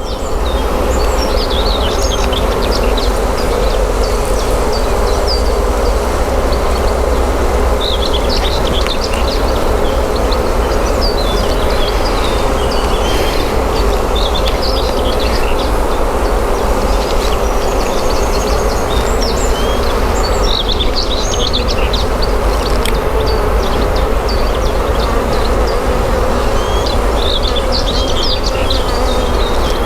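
Honeybees buzzing steadily around an open hive, with frequent short high chirps over the buzz.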